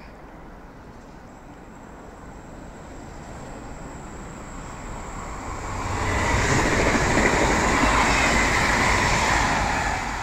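Train passing close by: the rumble and rail noise build over several seconds, are loudest from about six seconds in, and begin to fade near the end.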